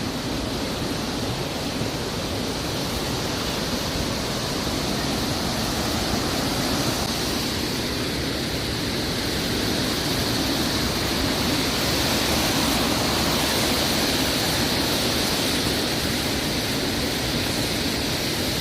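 Steady rushing of the water at Kakabeka Falls, an even noise with no breaks.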